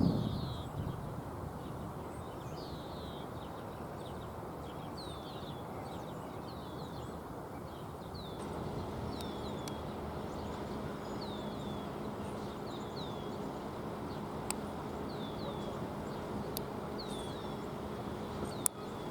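Birds chirping repeatedly, each call a short downward-sliding note, over a steady outdoor background. About eight seconds in, a low steady hum joins, and there are a few sharp clicks near the end.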